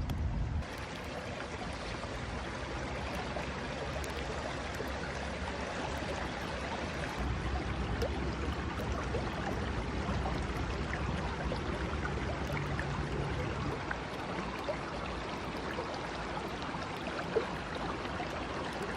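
Steady rush of a flowing stream outdoors.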